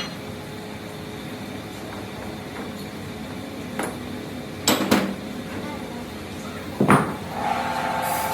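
A few sharp metal knocks, with a double knock about halfway and another near the end, over steady workshop noise; a steady whine with hiss sets in just before the end.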